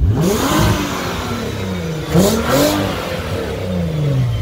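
VW Golf Mk4 R32's 3.2-litre VR6 engine revved twice: the pitch climbs quickly and falls back, then climbs and falls again.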